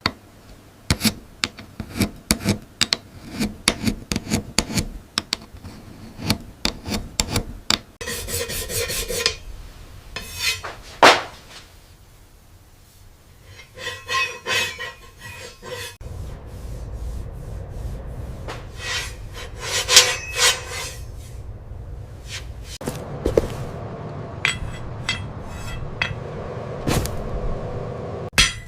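Hand filing and sanding on a steel knife blade: scraping, rubbing strokes mixed with sharp taps and clicks. A steady low noise comes in about halfway through and runs under the strokes.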